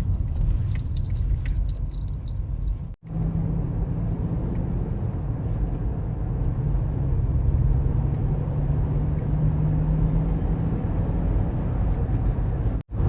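Road noise from inside a moving car: a steady low rumble of tyres and engine, with a steady hum coming in about three seconds in. The sound drops out abruptly twice, about three seconds in and near the end, where clips are cut together.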